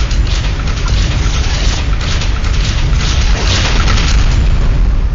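A loud, dense rumbling noise with a heavy deep low end, like a boom. It starts abruptly just before and runs steadily for about five seconds, then eases as speech returns.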